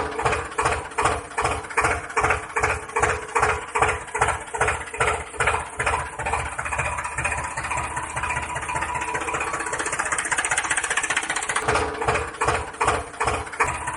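Tractor engine chugging in a steady beat, about three to four pulses a second, evening out for a few seconds past the middle before the beat returns near the end.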